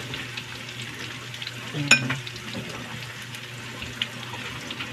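Chopped garlic, onion and ginger sizzling in hot cooking oil in a wok, the steady hiss of a sauté, with a single sharp clink about two seconds in.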